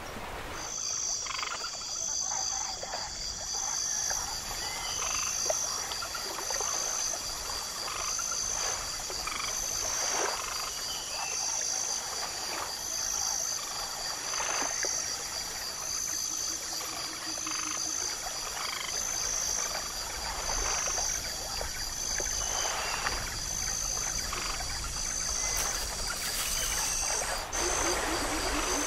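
Background chorus of chirping animals: a steady high-pitched trill with a higher chirp repeating about once a second, over faint scratching of a pencil on paper. A low hum comes in near the end.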